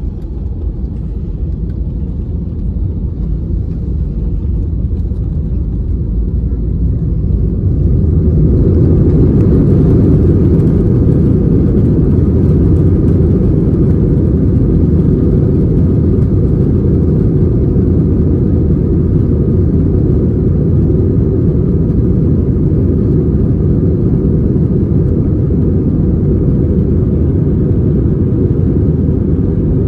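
Airbus A320 jet engines heard from inside the cabin, growing louder over the first several seconds and then running steadily at high power, as on the takeoff roll and climb.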